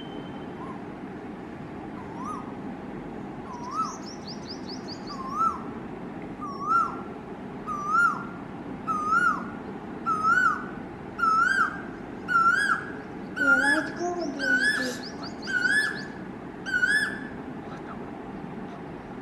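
Male Asian koel singing its 'ko-el' song: about a dozen rising notes, roughly one a second, each higher and louder than the last, before it stops abruptly. Another small bird chirps briefly twice, over a steady low background rumble.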